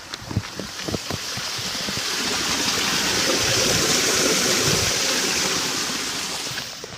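A rush of water that swells up to a peak about halfway through and then dies away near the end, with scattered drips at the start.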